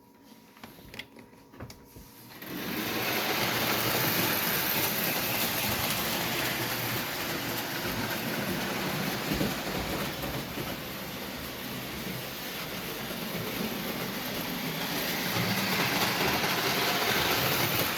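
American Flyer wide gauge electric toy locomotive running on its track: a steady mechanical whir of its motor and gearing that starts about two and a half seconds in after a few light clicks, and grows a little louder near the end.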